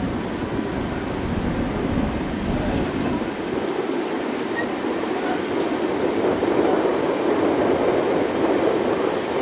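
Passenger train running along the track: a steady noise of wheels and carriage. A few seconds in, the deepest part drops away and the sound shifts higher and grows a little louder.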